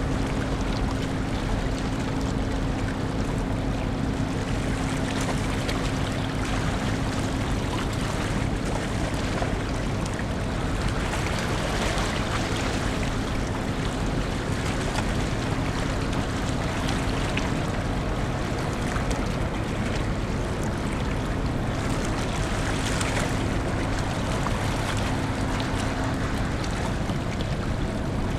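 Steady low drone of the car ferry Ferry Suou under way, with a constant hum running through it, mixed with wind and rushing water.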